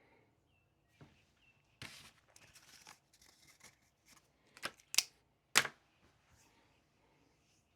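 Rustling handling noise for a couple of seconds, then two sharp clicks or knocks about half a second apart, the loudest sounds here.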